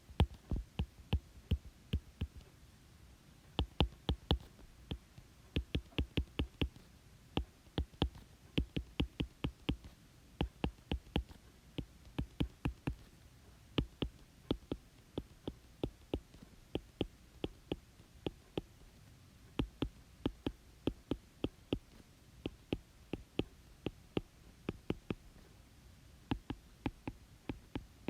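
Irregular runs of short, sharp taps, several a second with brief pauses, from a pen striking a hard writing surface as a calculation is written out by hand.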